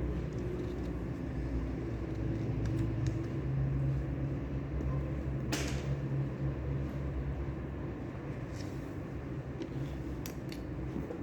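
Steady low rumbling background ambience with a few faint clicks and a short rustle about halfway through.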